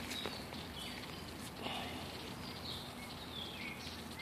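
Birds chirping faintly in short, falling notes, over a steady low background hiss.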